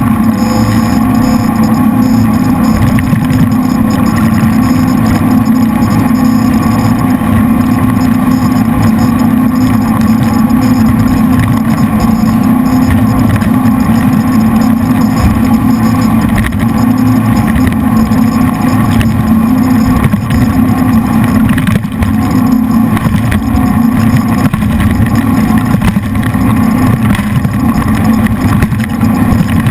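Jet boat's three V8 engines running steadily at speed under way.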